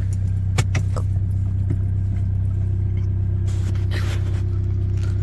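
Volkswagen Jetta TDI diesel driving at a steady speed, heard from inside the cabin: a steady low engine and road drone, with a few light clicks in the first second.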